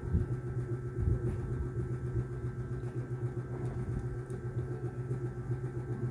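A steady low mechanical hum with a few fixed tones, with two soft thumps about a second apart near the start.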